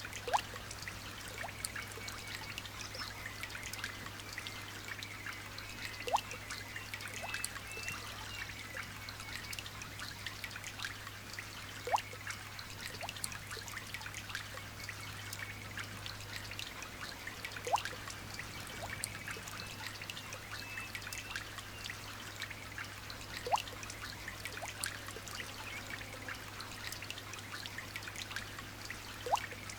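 Light rain pattering steadily with many small drips. A louder single drip plinks about every six seconds.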